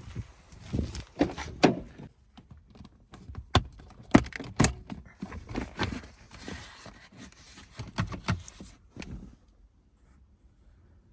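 Irregular clicks, knocks and light rattles of hands handling metal parts or tools on a car, dying away about nine seconds in.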